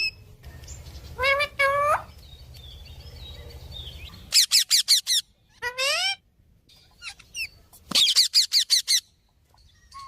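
Parrot calling: a few short rising calls and two rapid runs of sharp, repeated chirps, with quieter gaps between.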